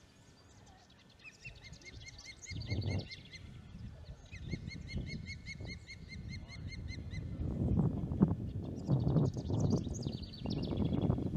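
An osprey calling: runs of short, high, evenly spaced chirps, about five a second, coming in three spells. In the second half a low, gusty rumble comes in and is louder than the calls.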